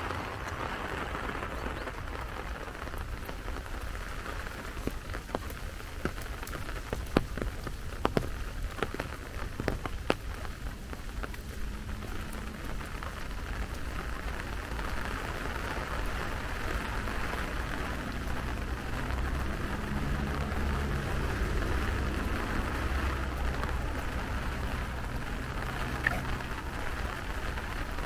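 Steady rain falling, with a spell of sharper, louder drop ticks between about five and ten seconds in and a low hum in the background during the second half.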